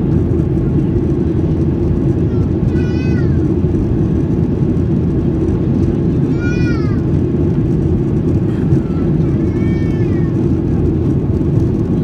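Steady loud cabin noise of a Boeing 737-800 in the climb, engines and airflow. Three short high-pitched cries rise over it, a few seconds apart, each rising briefly and then falling in pitch.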